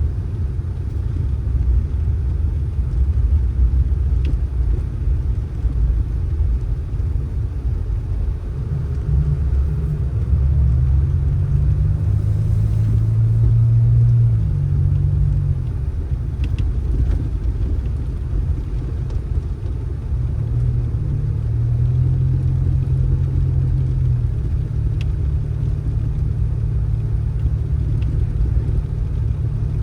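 Motor vehicle rumble, a steady low engine and road drone, with a deeper engine note that comes up twice, about ten seconds in and again a little past twenty seconds.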